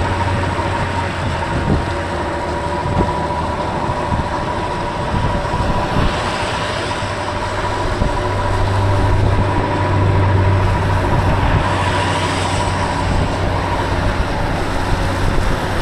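Wind buffeting an uncovered microphone on a moving bike, with a steady low rumble and a thin, steady high whine underneath.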